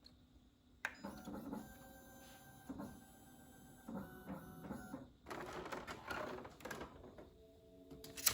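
Laser printer running: its feed and drive motors hum with steady tones that start and stop as it prints label sheets. Soft music comes in near the end.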